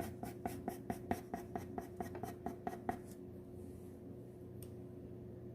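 Coloured pencil scribbling on paper in quick repeated short strokes, about five a second, stopping about three seconds in.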